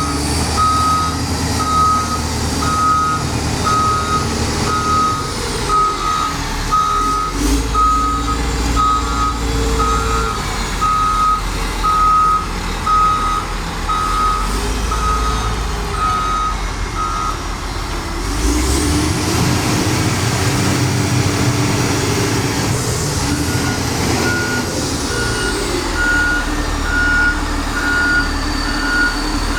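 Liugong CLG4180D motor grader's six-cylinder Cummins diesel running with its reversing alarm beeping about once a second. About eighteen seconds in the beeping stops, the engine revs up and a whine rises and falls. A higher-pitched reversing alarm starts beeping near the end.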